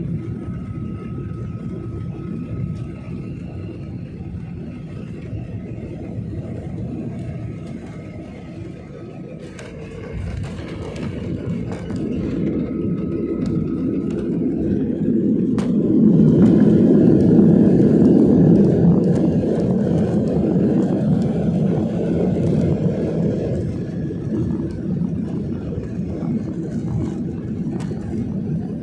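Aircraft landing: a steady low rumble that builds, jumps sharply after a brief click about halfway through, stays loudest for several seconds, then eases off.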